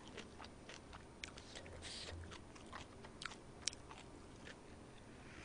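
Faint chewing of a mouthful of spicy buckwheat noodles (makguksu), with scattered small wet mouth clicks.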